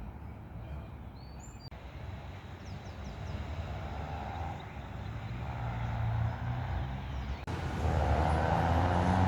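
Low rumble of road traffic, growing louder towards the end as a heavy vehicle draws near, with a few faint bird chirps in the first couple of seconds.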